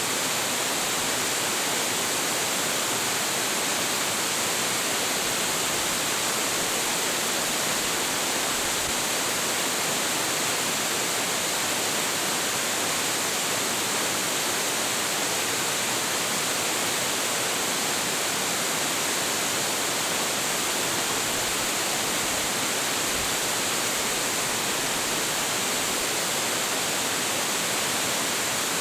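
Waterfall pouring: a steady, unbroken rush of water falling 25.7 m into a plunge pool at Hiji Falls.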